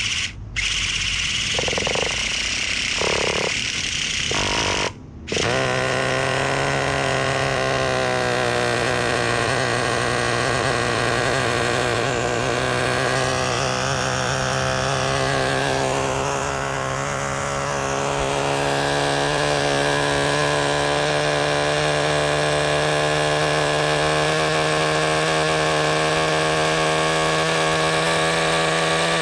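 Nitro Rustler's 2.5 nitro engine cranking on its electric starter with a couple of brief stops, then catching about five seconds in and running on steadily at a high, buzzing idle.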